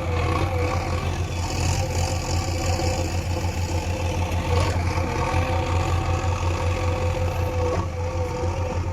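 Heavy diesel machinery engine running steadily: a deep pulsing hum with steady higher tones over it.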